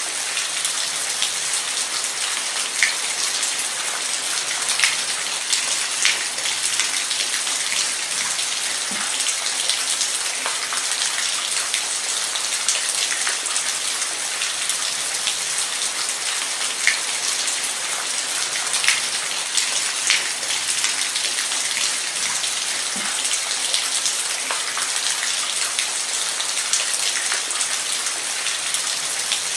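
Steady rain with individual drops ticking close by.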